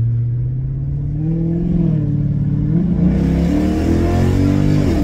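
Chrysler 300C's Hemi V8 accelerating hard with the windows down. The engine note climbs in pitch, drops at an upshift about three seconds in, then climbs again before easing off near the end.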